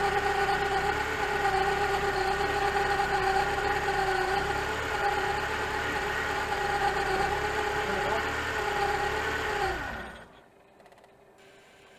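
Rebuilt 2.4-litre long-rod Evo 9 engine idling with a steady whine, the noise the owner takes for the timing belt after the rebuild. About ten seconds in the engine is switched off: the whine sags in pitch and dies away, leaving faint hiss.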